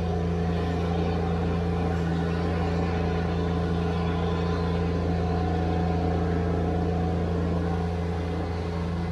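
TYM T574 subcompact tractor's diesel engine running at a steady speed, an even, unchanging hum.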